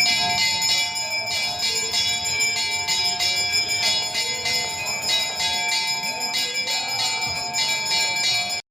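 Hindu temple bells ringing continuously, struck over and over so that their ringing tones overlap, with voices faintly underneath.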